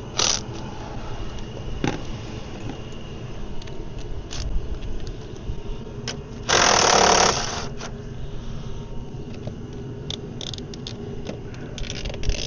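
Scattered short clicks and knocks of hand tools working at the van's battery, over a steady low rumble. A little past the middle comes one loud rushing noise lasting just over a second, which stops abruptly.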